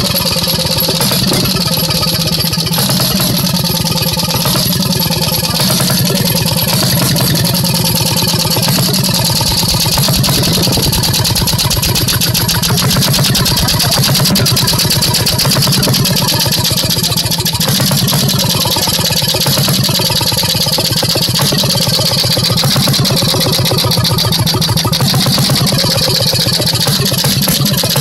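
Sato Yakitama two-stroke hot-bulb engine running steadily, its firing beat fast and even.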